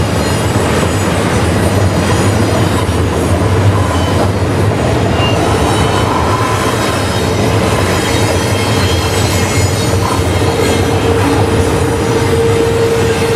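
Freight train cars rolling past, a steady loud rumble of steel wheels on rail. About eight seconds in, a steady single-pitched wheel squeal sets in and holds.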